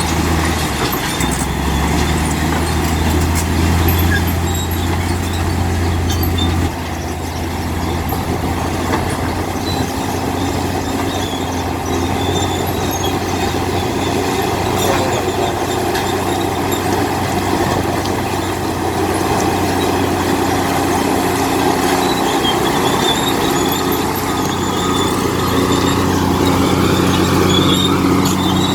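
Heavy diesel engine of earthmoving machinery running steadily. Its note steps down about seven seconds in.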